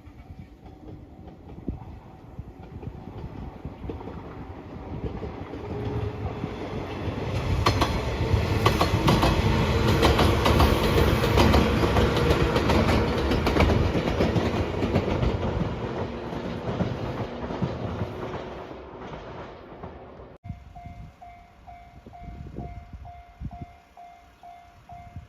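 A train passing over a level crossing: a rumble with clattering wheels over the rail joints that swells to its loudest about ten seconds in and then fades away. After a sudden cut, a Japanese level-crossing warning bell rings in steady dings about twice a second.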